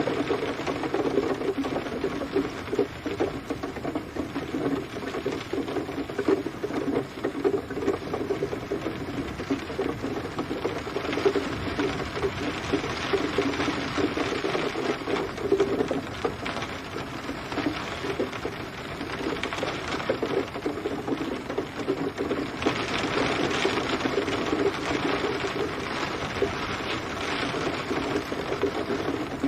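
Steady rain, a dense spray of drops with no thunder. The hiss of the rain grows brighter about eleven seconds in and again a little past twenty seconds.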